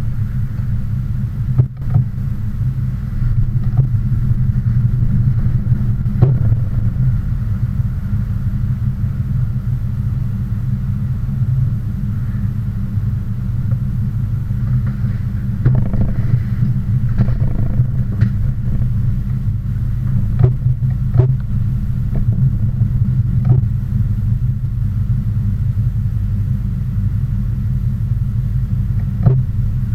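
Engine running with a steady low rumble, broken by a few faint clicks.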